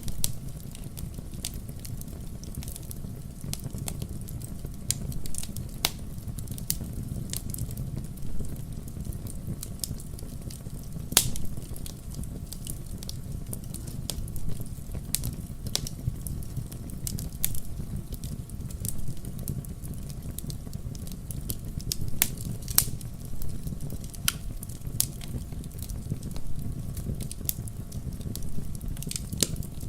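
Fire in a fireplace crackling: a steady low rumble of flames under frequent sharp pops and snaps, with a few louder pops about eleven seconds in and again a little past twenty seconds.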